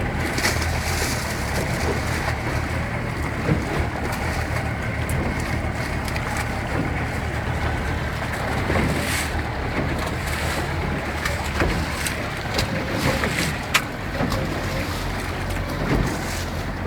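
Motorboat under way: a steady engine hum with water rushing and splashing against the hull and wind buffeting the microphone, broken by occasional brief knocks.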